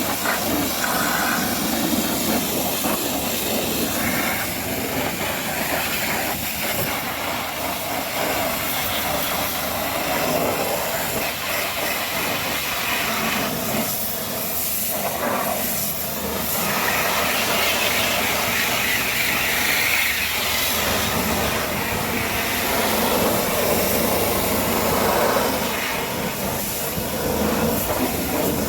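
High-pressure washer jet spraying water against a truck, a steady hiss whose tone shifts as the spray moves across different surfaces.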